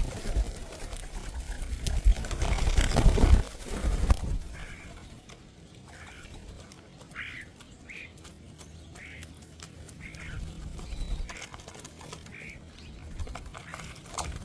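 Loud close-up rustling and crunching for the first few seconds, then a bird giving short, repeated calls, about one a second.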